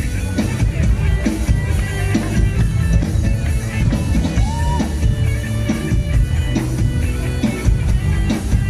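Live mor lam band playing an instrumental passage: electric guitar over bass and drum kit with a steady beat.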